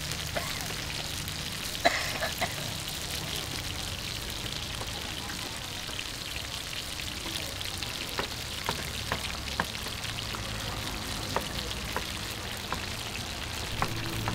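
Pork potstickers and small buns sizzling in oil in a large shallow frying pan, a steady crackling hiss. Sharp clicks of metal tongs and chopsticks against the pan cut through it: one loud click about two seconds in and a scattering of lighter ones in the second half.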